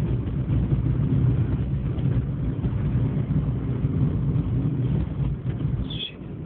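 Car running on the road, heard inside the cabin: a steady low engine and road rumble that drops off briefly near the end, with a short high chirp at the same moment.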